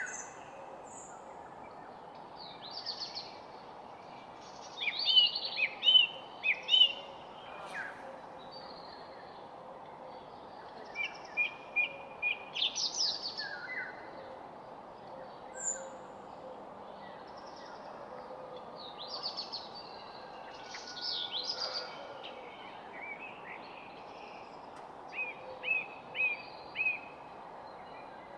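Wild songbirds singing in short, repeated phrases of chirps and whistled notes, coming in bouts every few seconds, over a steady background hiss.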